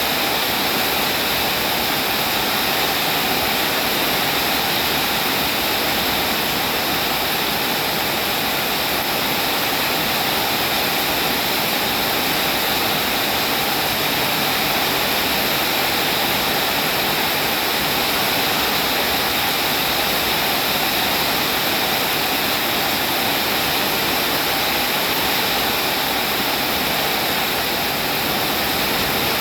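Steady, heavy rainfall: a dense, even hiss that holds at the same level throughout.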